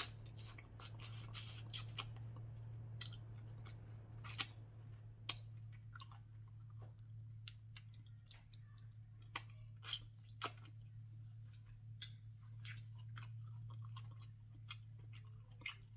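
Crawfish being eaten: boiled shells cracking and peeling by hand, with chewing, heard as scattered sharp crackles and clicks over a steady low hum.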